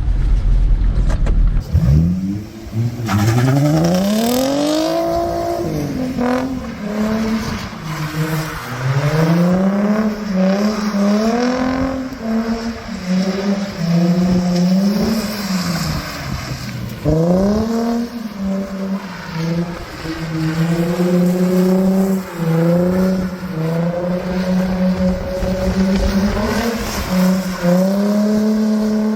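Nissan 350Z's V6 engine being revved and let off again and again while drifting, its pitch climbing and falling over and over, with road and tyre noise on a wet road heard through open windows. Near the end it holds a steadier, higher note.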